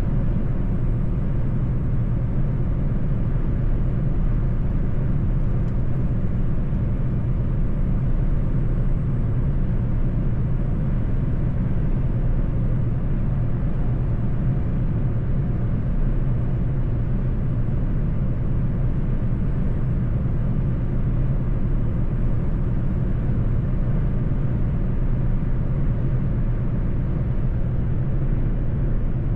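Mercedes-Benz truck driving at a steady pace: a constant low engine drone and road rumble, with no changes in pitch or level.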